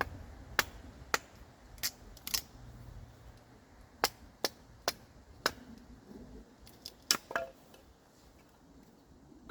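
A series of about a dozen sharp clicks and knocks at irregular intervals, then quieter for the last two seconds.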